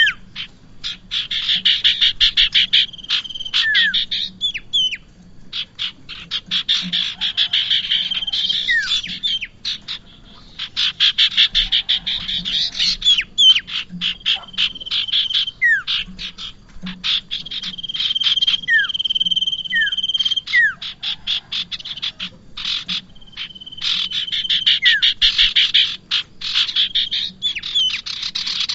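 Prinia (prenjak) song: runs of several seconds of rapid, dry chattering notes with a steady high whistle and short falling whistles mixed in, broken by brief pauses.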